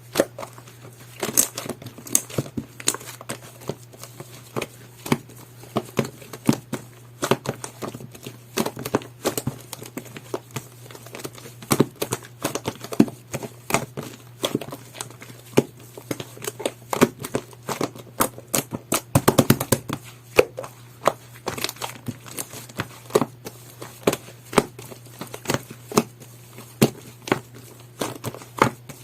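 Jelly-textured clear slime being squeezed, pressed and poked by hand, giving irregular wet clicks and crackling pops, with a quick run of clicks about nineteen seconds in.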